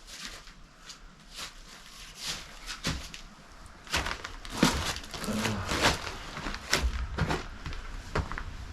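Hand tools clinking, knocking and scraping on metal parts of the engine in irregular short clicks, sparse at first and busier from about halfway through.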